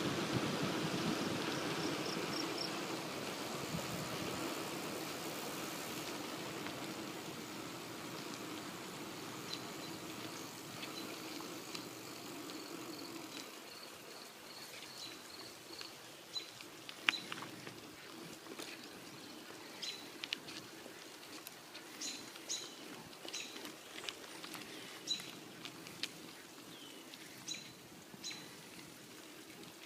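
Wind and rolling noise from a bicycle ride, fading over the first dozen seconds. Small birds chirp through the second half, a short high note repeated many times, with scattered sharp clicks.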